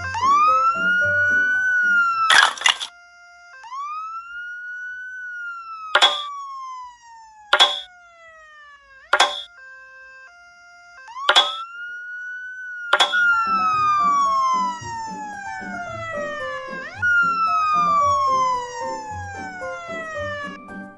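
Toy ambulance siren wailing: a tone climbs and then slides slowly down, three times over, with sharp clicks in between. Light background music plays at the start and comes back for the last third.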